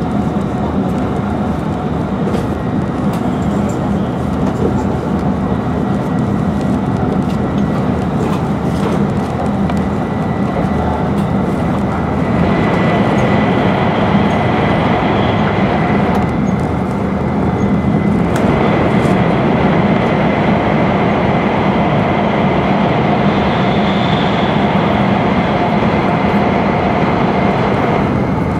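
Cabin noise of an E5-series Shinkansen at high speed: a steady rush of air and running noise. It grows louder about twelve seconds in as the train enters a tunnel.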